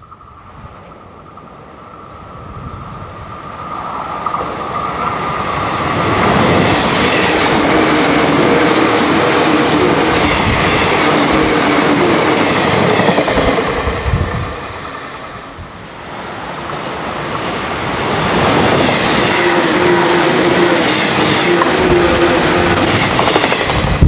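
485-series "Raichō" limited express electric train approaching and passing close by on a curve. A steady high tone is heard at first, then the running noise grows to loud with wheels clicking over the rail joints. The noise dips about two thirds of the way through, then swells again.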